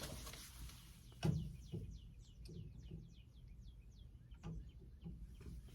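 A bird singing a quick trill of short, falling high chirps, about six a second, for two to three seconds. A soft knock comes just before it starts.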